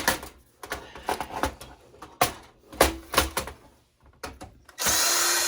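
Sharp clicks and knocks as the metal parts of a computer power supply are handled. Near the end a power drill starts and runs steadily, driving out screws.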